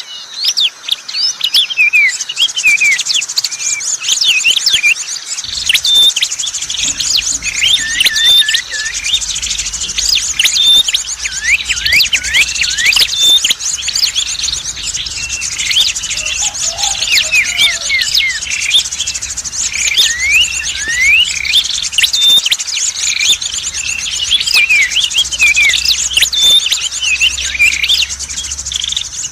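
Dense chorus of small songbirds: many quick overlapping chirps and short rising and falling whistles over a continuous fast high trill. This is a bird-lure recording for calling in tailorbirds ('prenjak merah') and other small birds. A faint low hum joins about five seconds in.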